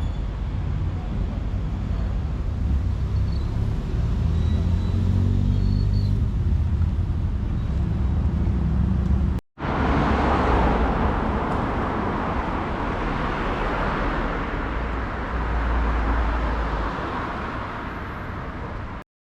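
Street traffic: a motor vehicle's engine running close by, its pitch rising over a few seconds. After an abrupt cut about nine seconds in, a steady wash of traffic noise takes over and eases off slightly near the end.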